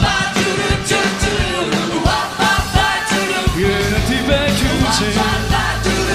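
Live rock and roll band playing, with a steady loud beat.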